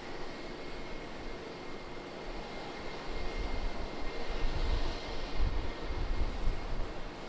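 Jet airliner engines rumbling, growing louder about three seconds in and staying loud and uneven until near the end.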